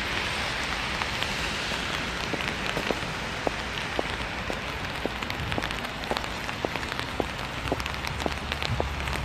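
Steady rain falling, with many separate raindrop hits ticking sharply through it. A low rumble comes in near the end.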